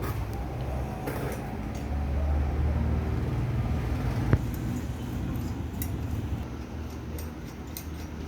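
Small metal clinks of turbocharger parts and tools being handled, with one sharp metallic knock about four seconds in, over a steady low rumble.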